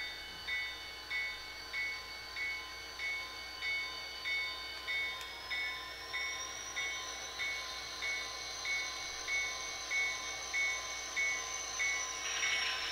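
Locomotive bell from the SoundTraxx Tsunami2 sound decoder in an HO scale Athearn Genesys GP40-2, ringing steadily at about one and a half strokes a second over the diesel sound. A high whine rises about five seconds in and falls away near the end.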